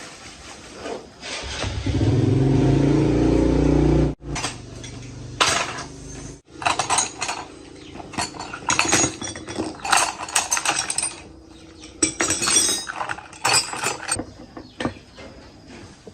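A motor runs loudly and steadily for about three seconds, then cuts off abruptly. After that, metal parts and tools clink and clatter in a long series of sharp knocks.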